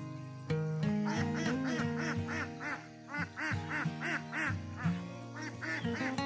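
A duck quacking in a rapid series, about three quacks a second, with a few more near the end, over acoustic guitar background music.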